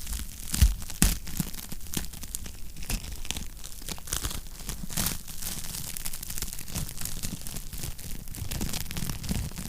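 Wood fire crackling in a fireplace: a dense, steady run of small crackles and snaps, with two louder pops a little over half a second and about a second in.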